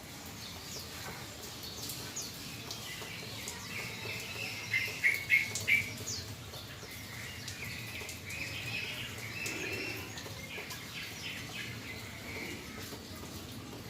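Sooty-headed bulbul (trucukan) chirping over and over in short notes, with a run of louder notes about five seconds in.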